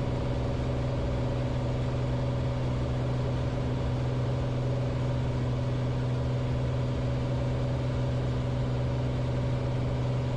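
Light piston airplane's engine and propeller droning steadily, heard from inside the cockpit: a strong low hum with higher steady tones above it, holding one pitch throughout.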